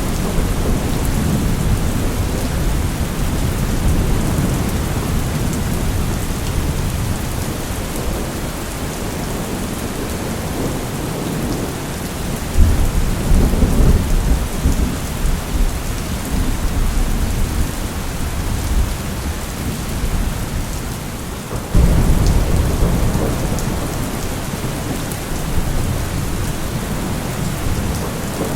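Steady rain with rolling thunder low underneath. A thunder rumble swells about twelve seconds in, and another comes in suddenly about twenty-two seconds in.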